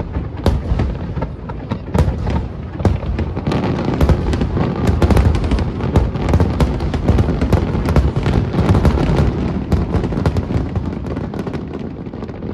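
Aerial fireworks bursting in a rapid, dense barrage: overlapping booms with crackling, loudest through the middle and thinning a little near the end.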